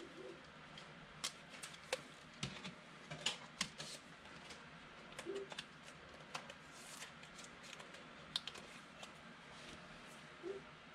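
2020 Mosaic football trading cards being handled and flipped through one at a time: faint, irregular light clicks and taps of card against card.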